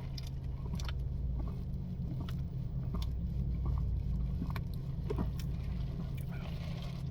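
Steady low hum of an idling car engine, with scattered small clicks and taps.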